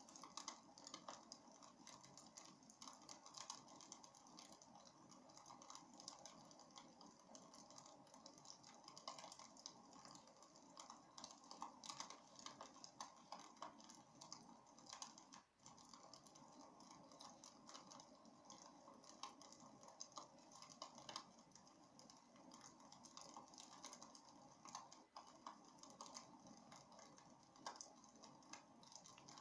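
Wood fire crackling in a fireplace: a faint, continuous run of small irregular crackles and pops.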